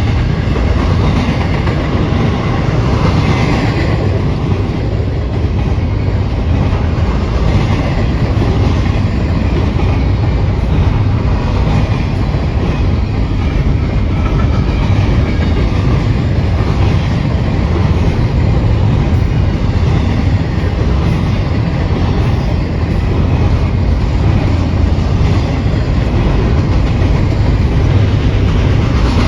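Freight train cars rolling past, a loud, steady rumble of steel wheels on rail.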